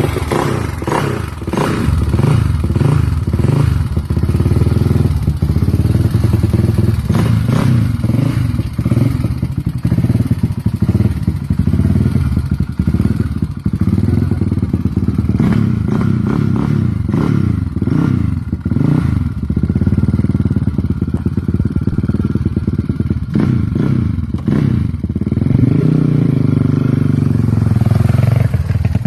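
Yamaha Raptor ATV's big-bored 719 single-cylinder four-stroke engine running loud through a full Looney Tuned exhaust as it is ridden, revving up and falling back again and again, with scattered short clatters.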